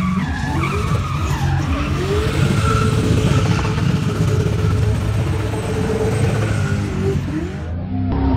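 Mercedes 190E with a turbocharged 5.0-litre M119 V8 revving up and down while drifting in circles, its rear tyres skidding and squealing against the asphalt.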